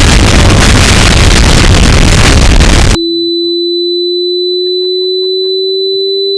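A very loud, distorted blast of noise at full volume that cuts off suddenly about three seconds in, giving way to a steady pure ringing tone that creeps slightly up in pitch, like an edited ear-ringing effect after an explosion.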